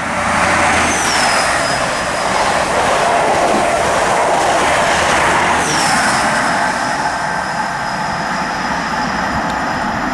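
InterCity 125 (HST) with Class 43 power cars passing through at speed: a loud, continuous rush of diesel engine thrash and wheel-on-rail noise that eases slightly in the second half. Two brief high whistling tones fall in pitch about a second in and again about six seconds in.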